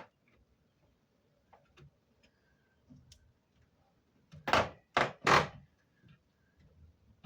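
Three heavy thunks in quick succession, about half a second apart, the last one longest: the window air conditioner or its frame being knocked and shifted into place.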